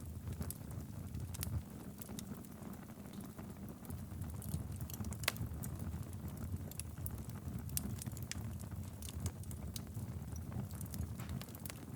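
Fireplace wood fire burning steadily: a low rumble of flames with irregular crackles and pops, a few louder snaps among them.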